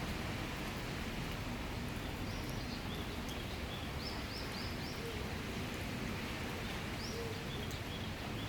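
Steady summer rain shower falling, with a bird giving a run of short, high chirps through the middle.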